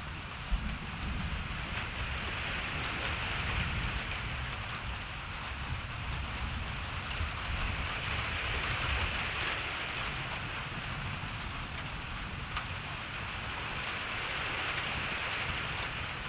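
Steady rain falling, with a low, uneven rumble of distant thunder underneath. Two sharp single drop hits stand out, one about half a second in and one near the end.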